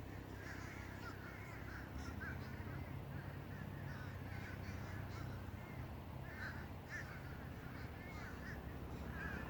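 Crows cawing, many short overlapping calls one after another, over a steady low rumble.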